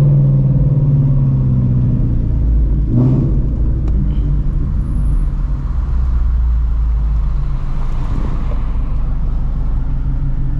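Straight-piped 2016 Shelby GT350's 5.2-litre flat-plane-crank V8, breathing through long-tube headers, drones at low revs while cruising. The pitch eases down a little over the first two seconds, then holds as a steady low rumble, with a brief thump about three seconds in.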